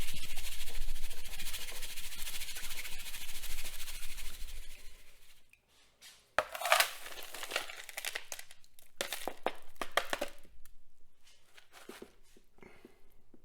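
Water hissing steadily for about five seconds, then, after a short pause, a run of irregular scraping and rattling as wet gravel concentrates are worked through a kitchen strainer.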